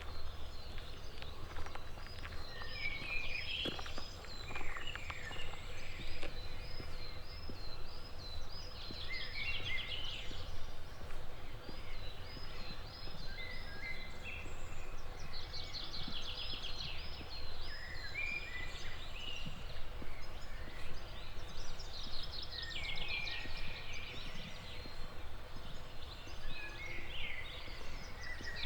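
Songbirds singing in the early morning: a song phrase of looping high notes ending in a rapid trill, repeated every six or seven seconds, with shorter calls from other birds in between, over a steady low outdoor hum.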